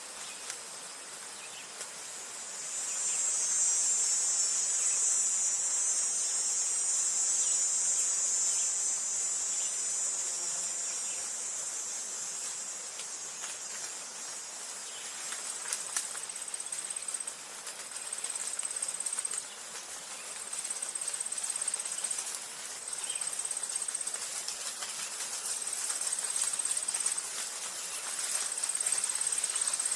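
Insects trilling: a high-pitched continuous buzz swells about two seconds in and fades after about twelve seconds. After that, a high trill repeats in spells of one to two seconds with short breaks, over faint outdoor hiss.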